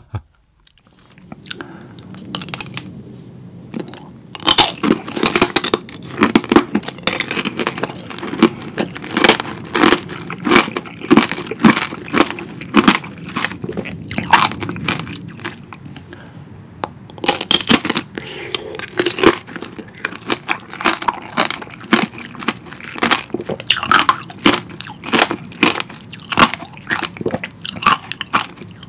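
Close-miked eating of strawberry tanghulu: the hard candied sugar shell cracking and crunching between the teeth as fresh strawberries are bitten and chewed. Rapid crunches come thick from about four seconds in, ease off briefly around sixteen seconds, then start again.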